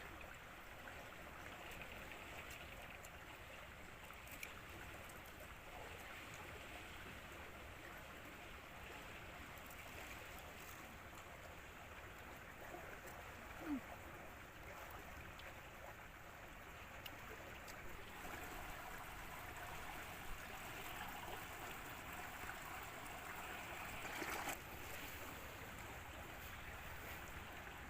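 Faint, steady outdoor background hiss like running water, with a few soft clicks.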